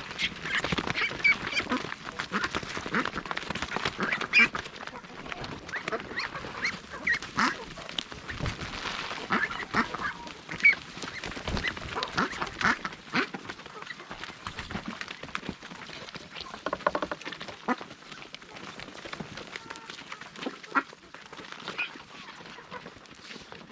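A flock of domestic ducks quacking, with many short overlapping calls that are busiest in the first half.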